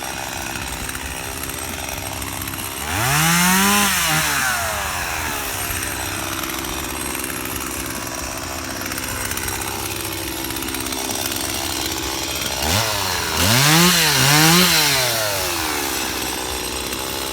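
Stihl two-stroke chainsaw idling, revved up once about three seconds in, then revved twice in quick succession near the end, the pitch rising and falling with each rev.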